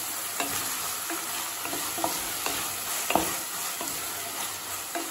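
Sliced tomato, onion and green chilli sizzling in hot oil in a nonstick pan, stirred with a wooden spatula that scrapes and knocks lightly against the pan a few times.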